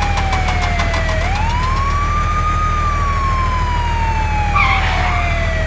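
Emergency vehicle siren wailing: the pitch slides slowly down, sweeps back up about a second in, then falls gradually again. A steady low rumble runs underneath.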